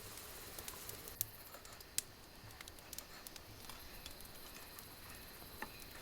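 Faint, irregular crackling and ticking of a fire burning in a camp fire stand, with a couple of sharper pops about one and two seconds in.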